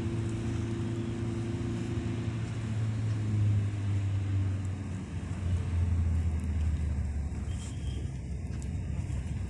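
A motor vehicle's engine running steadily, its low hum dropping a little in pitch about five seconds in, over an even hiss of road noise.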